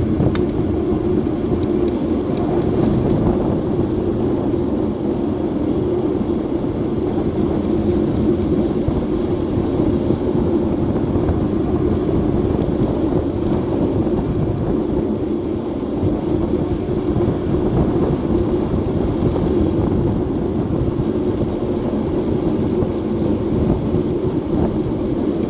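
Wind blowing across the microphone of a Garmin VIRB action camera on a moving bicycle: a steady rushing noise.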